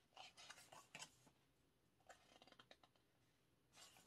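Faint, intermittent paper rustles and scuffs as a photobook's pages and the cards tucked inside are handled.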